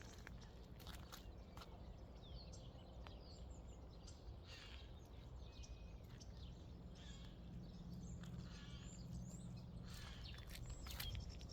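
Faint bird chirps and calls, scattered and short, over a steady low rumble.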